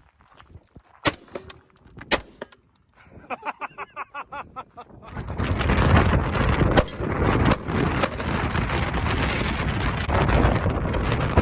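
Strong wind buffeting the microphone, setting in about five seconds in as a loud steady roar. A few sharp cracks cut through it, and there are some isolated clicks in the quieter first half.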